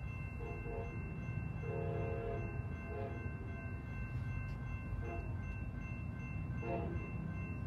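Approaching train sounding its horn in several faint blasts, one longer one about two seconds in, over a steady low rumble.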